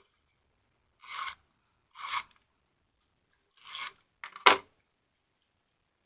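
Tape runner being drawn across the back of cardstock pieces: three short strokes, then a sharper, louder pair of strokes about four and a half seconds in.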